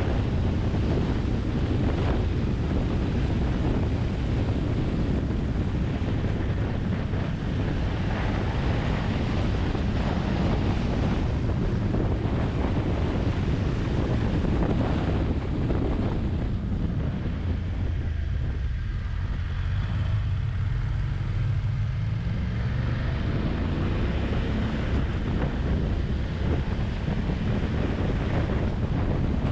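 Wind buffeting the microphone of a moving motorcycle, over a steady low engine rumble. The wind noise eases for a few seconds a little past the middle, leaving the engine more exposed, then picks up again.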